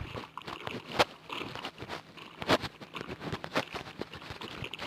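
Wet slime being mixed and squished, with irregular sticky pops and crackles, the loudest about a second in and about halfway through.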